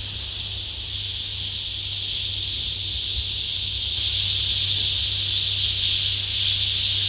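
Trapped air hissing steadily out of a radiator's opened bleed valve, growing slightly louder partway through. The sign of air trapped in the radiator, which leaves it cold at the top.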